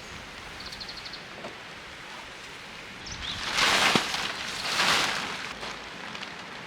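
Outdoor ambience: a steady background rush with a few faint insect trills near the start, then two louder rustling swells in the middle, about a second apart.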